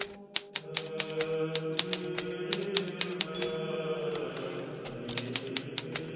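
Hermes Baby portable typewriter being typed on at a brisk pace, quick key strikes about five or six a second, with a brief high ring about three seconds in. A steady low musical drone plays underneath.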